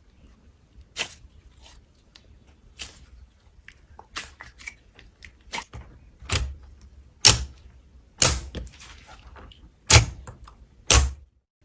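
Slime being pressed and poked by hand, giving irregular sharp pops and clicks, about a dozen, the loudest near the end.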